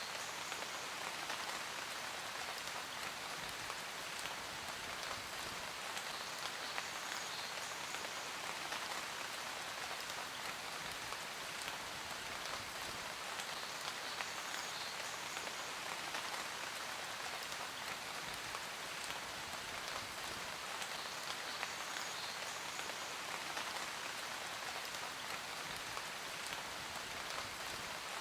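Steady rain: a dense, even hiss of drops landing on a surface, with fine scattered drip ticks and no let-up.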